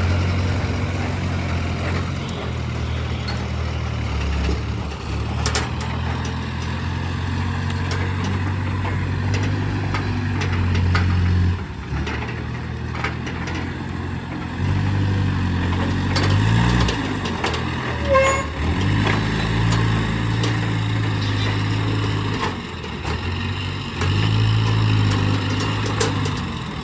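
Heavy diesel engine of a log-loading crane running under load, its pitch rising and falling several times as the machine works.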